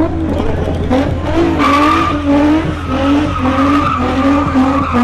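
Car tyres squealing hard in a burnout or donut: a wavering screech that pulses and shifts in pitch, over a steady low rumble.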